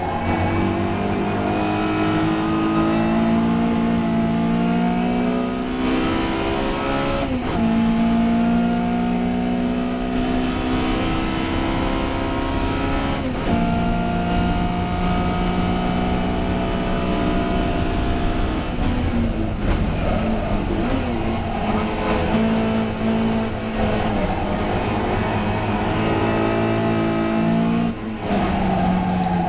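Touring race car's engine running hard on track. The engine pitch climbs and settles between four sharp breaks a few seconds apart, which are gear changes.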